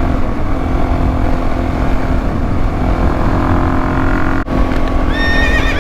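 Suzuki DR-Z400S single-cylinder four-stroke engine running steadily under way, with heavy wind rumble on the microphone. A brief high tone sounds near the end.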